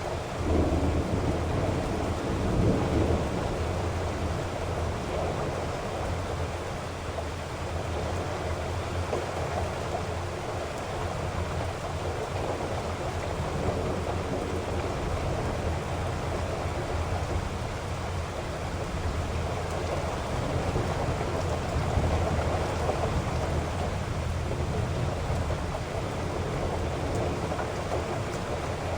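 Heavy rain falling in a steady hiss, with rolling thunder rumbling in near the start and again about two-thirds of the way through.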